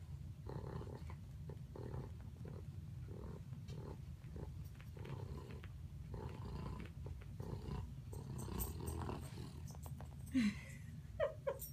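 Pug snoring and snorting in its sleep, quick rasping breaths about twice a second while it dreams. Near the end come a few louder, short squeaky sounds.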